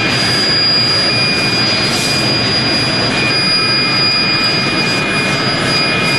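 Loud, steady machine noise with a constant high-pitched whine running through it.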